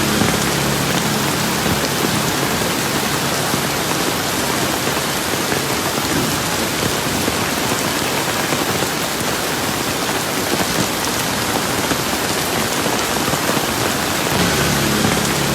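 Steady, dense rain falling and pattering on surfaces. A faint low hum sounds under it for the first few seconds and again near the end.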